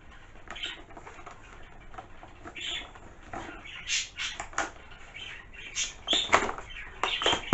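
Gift packaging being handled and pried at while trying to get it open: irregular rustling, scratching and clicking, with sharper, louder strokes in the second half.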